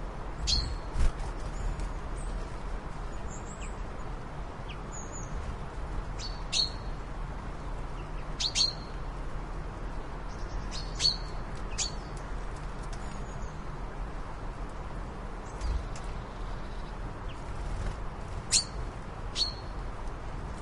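Birds chirping: short, sharp calls every one to two seconds, with fainter high twitters between them, over a steady low hum.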